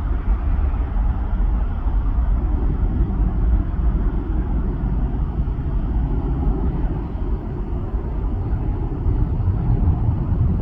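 Jet aircraft engine noise: a steady, heavy rumble with no distinct tones.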